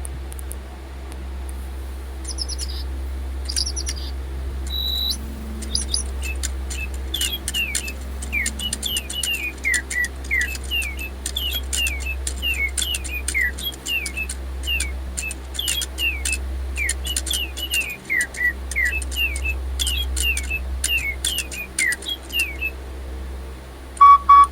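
DigiBird robot toy birds playing electronic birdsong: a few short electronic tones, then a long run of quick, falling chirps. Near the end there is a single loud beep, the weird beeping that the owner takes for the birds' batteries running low.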